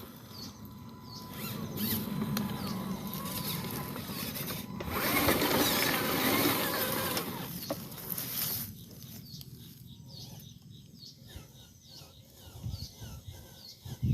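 Small electric motor and gearbox of a radio-controlled Kamaz 6x6 truck whirring. It is loudest for a few seconds in the middle, then fades. Birds chirp in the background.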